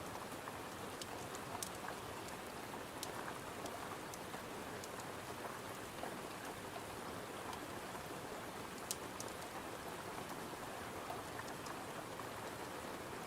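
Steady rain with scattered sharp crackling pops from a fireplace mixed in; the sharpest pop comes about nine seconds in.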